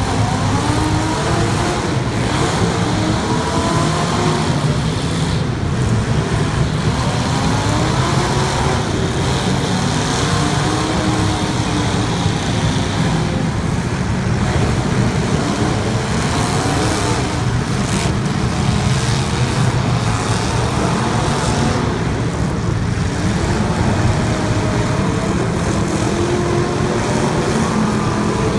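Demolition derby cars of the limited-weld class, several engines revving up and down at once over a steady rumble, with a couple of sharp knocks from cars hitting.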